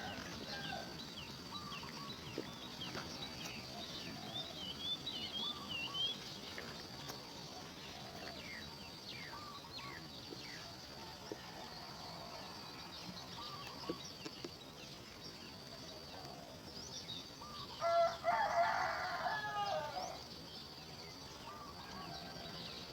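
Small birds chirping on and off against a steady high insect-like whine, with a rooster crowing loudly once, about two seconds long, near the end.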